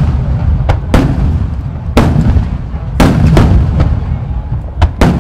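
Large ten-inch (shakudama) firework shells bursting in quick succession: sharp loud booms every half-second to second or so, each trailing off in an echoing rumble, with a continuous low rumble of overlapping bursts underneath.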